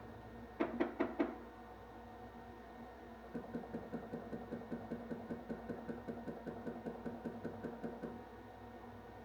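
Four sharp knocks in quick succession, then a fast, even run of softer knocks, about six a second, lasting some four and a half seconds, over a steady hum.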